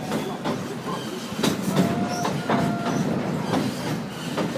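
Steam train's passenger cars rolling along the track, wheels clacking over the rail joints, with two short squeals about two seconds in.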